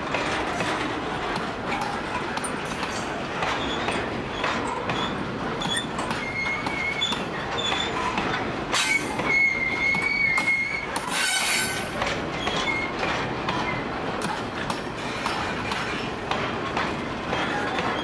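Steel grain hopper wagons of a freight train rolling past with a steady rumble, their wheels giving short high squeaks and a longer held squeal about nine to eleven seconds in.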